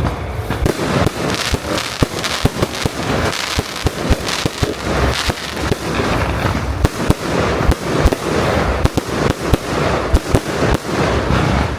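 Fireworks display going off: many sharp bangs in quick, irregular succession over a continuous crackling hiss.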